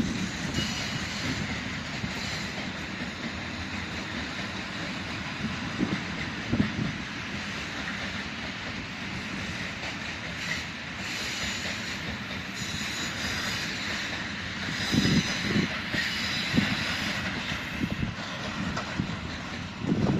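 Freight train hauled by an ET22 electric locomotive rolling past. The wheels thump over the rail joints, and a high squeal comes and goes as they run through the curve of the connecting line.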